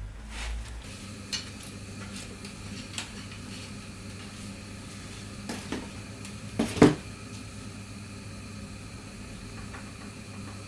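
Metal clinks and knocks from tools and parts being handled: several separate strikes, the loudest a close pair about two-thirds of the way through, over a steady low hum.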